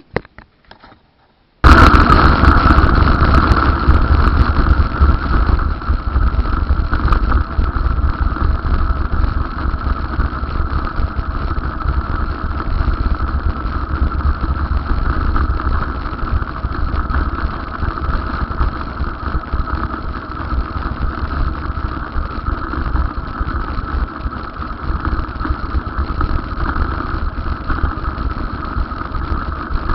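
Steady vehicle running noise with a heavy low rumble, cutting in abruptly about two seconds in.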